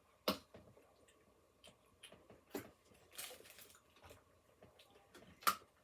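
A few sharp clicks and a short rustle, separated by quiet, from eating a fast-food meal: food and its paper and cardboard packaging being handled.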